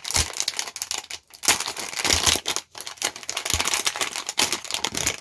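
Blind-bag packaging crinkling and rustling as it is torn open and handled, with rapid irregular crackles.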